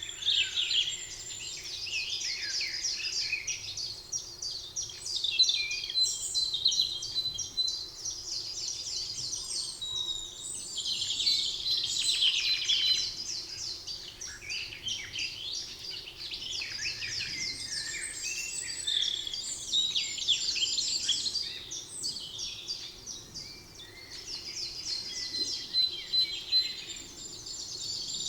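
Several songbirds singing at once: overlapping rapid chirps and trills in phrases that swell and fade every few seconds, over a faint steady background hum.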